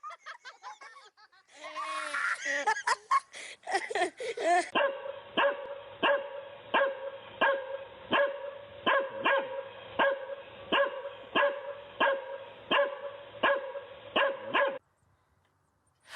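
Dog yipping and whining for the first few seconds, then barking over and over in a steady rhythm of about one and a half barks a second, stopping suddenly near the end.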